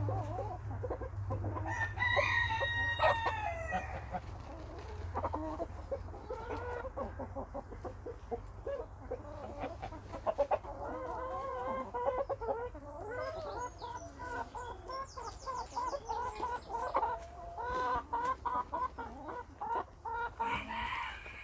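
Backyard flock of chickens clucking and calling, with a rooster crowing loudly about two seconds in. Many short wavering clucks follow in the second half.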